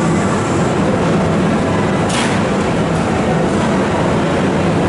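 Kintetsu limited-express train at a station platform, its machinery running with a steady, loud rumble. A short hiss comes about two seconds in.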